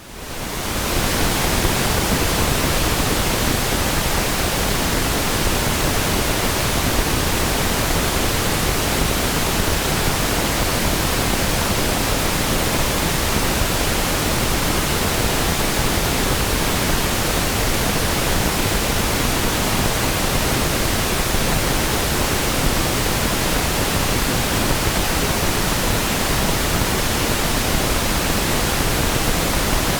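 Pink noise test signal: a steady, even hiss spread across the whole range from deep bass to treble, used to check a sound system's frequency response. It fades in over about the first second.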